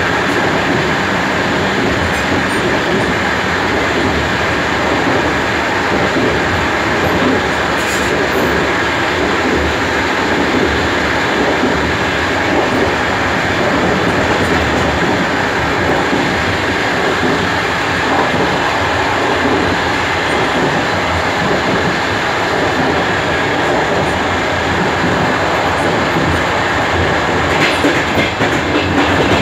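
DR1A diesel multiple unit running along the track: steady rolling noise of the train with the clatter of its wheels on the rails, a little more uneven near the end.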